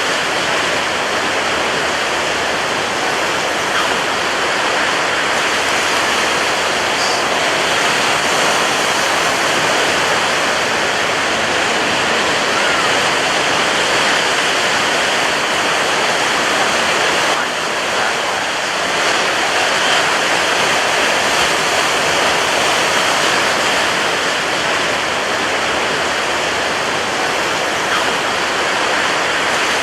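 Rough ocean surf breaking on a beach: a steady, dense rush of water with a brief slight lull about two-thirds of the way through.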